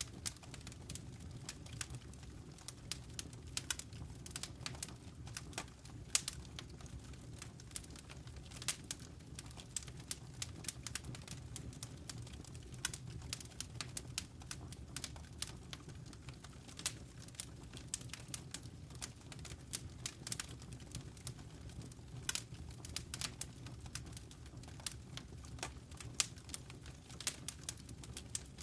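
Wood fire crackling in a fireplace: many small irregular pops and snaps over a steady low rumble of the burning fire.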